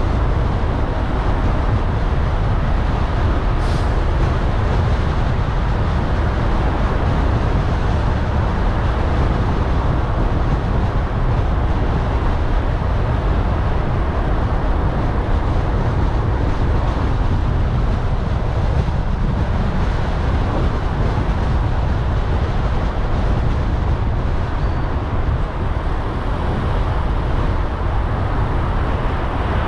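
Steady low rumble of a car driving through city traffic: road and engine noise.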